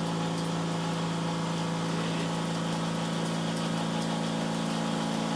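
Portable cotton candy machine's 12-volt DC motor spinning the heated sugar head: a steady, even hum.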